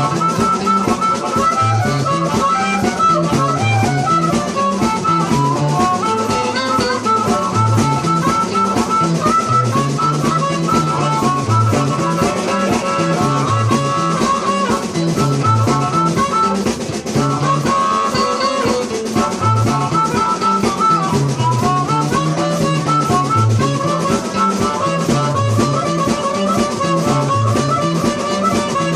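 Instrumental blues with a drum kit keeping a steady beat under a stepping bass line, with guitar on top.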